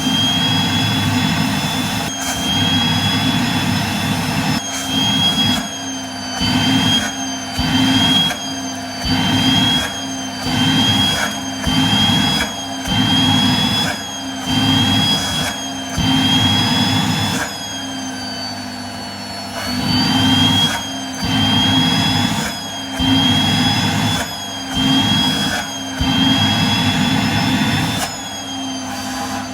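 Vacuum cleaner running with a steady high motor whine, its suction noise rising and falling about once a second as the nozzle is worked against tights and bare hands.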